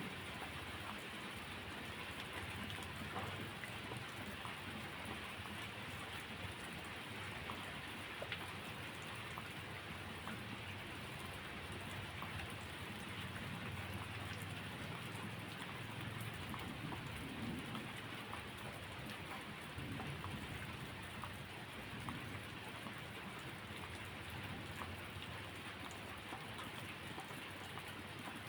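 Steady rain falling, with scattered small ticks and a low rumble that swells and fades underneath.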